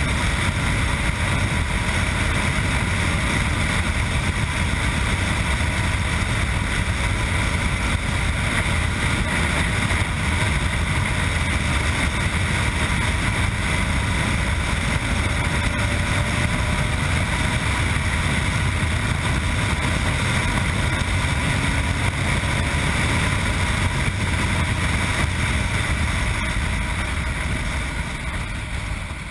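Yamaha MT-09's three-cylinder engine through an Akrapovic exhaust, running steadily while riding, mixed with wind noise on the microphone. The sound fades off near the end.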